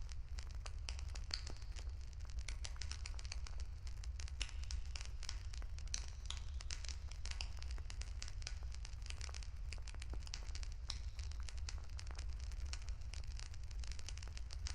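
Wood fire crackling, a dense irregular run of small snaps over a steady low rumble.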